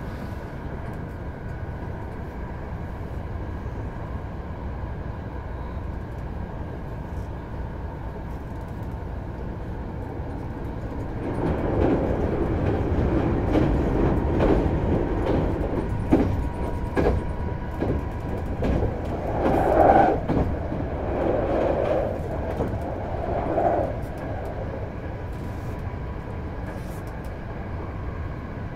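Hankyu 8000 series electric train running at speed, heard from inside the car: a steady rumble of wheels on rail. From about 11 to 24 seconds in it grows louder, with sharp clicks of wheels passing over rail joints.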